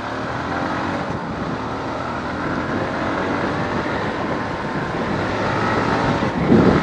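TVS Apache RTR 180 motorcycle's single-cylinder engine running under way, its pitch rising gradually as it accelerates, with wind noise over it. A brief loud whoosh comes near the end.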